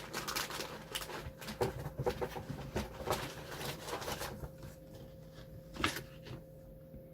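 Hands handling small objects at a table: a run of light clicks and rustles, going quieter about halfway through, with one sharper knock near the end.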